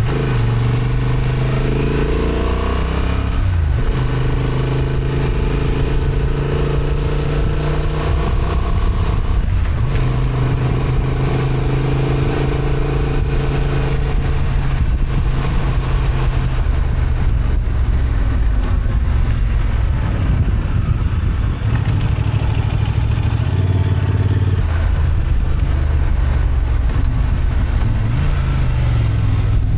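Honda XL750 Transalp's 755 cc parallel-twin engine, in its 35 kW restricted form, running under load on a climb. Its note holds steady for stretches, then breaks and changes pitch about four and ten seconds in, and shifts again in the last third.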